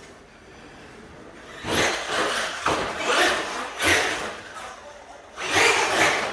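Traxxas E-Revo 1.0 RC monster truck, running its Castle Mamba Monster brushless system on 6S, driving in bursts. It is quiet for the first couple of seconds, then two spells of loud, hissy tyre and drivetrain noise come as it accelerates.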